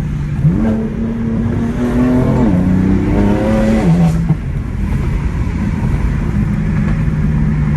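Straight-piped BMW M4's twin-turbo inline-six pulling hard: about half a second in the engine note jumps up and climbs. It drops at a gear change about two and a half seconds in, climbs again, and drops at a second change near four seconds, then settles into a steady drone.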